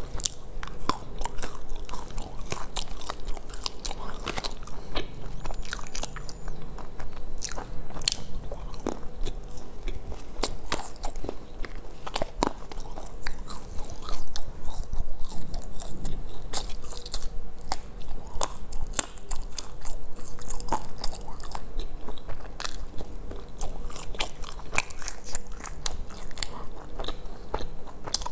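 A person chewing and biting into green-coated dates stuffed with almonds, with many small crunches and clicks throughout.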